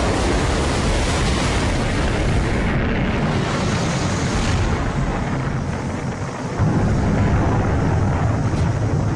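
Rocket roaring and rumbling continuously during a failed launch, with a sudden surge louder a little past halfway.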